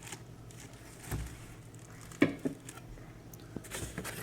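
Small knocks and rustles from stainless steel percolator parts being handled, with one sharper knock about two seconds in.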